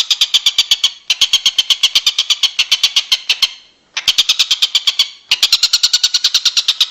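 Songbird training recording for caged birds: a rapid, very even chatter of sharp high notes, about ten a second. It breaks off briefly about one second in, about five seconds in, and for about half a second around three and a half seconds in.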